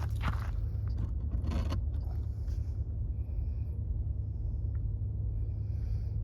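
A steady low hum, with a few brief knocks and rustles in the first two seconds.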